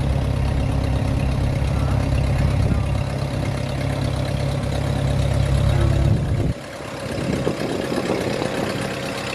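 A heavy truck engine running steadily with a deep, loud low end. It cuts off abruptly about six and a half seconds in, leaving a quieter engine sound.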